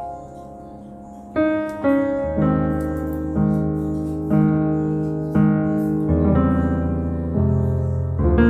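Background piano music: slow notes struck about once a second, with a bass line coming in a few seconds in.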